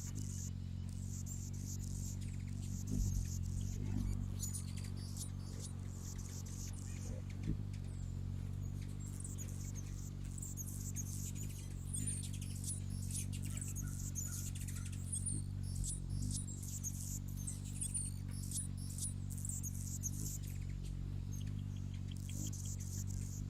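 Small birds giving quick runs of high-pitched chirps and squeaks over a steady low hum.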